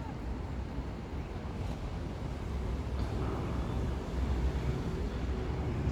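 Low, fluctuating wind rumble buffeting the microphone, a little stronger in the second half.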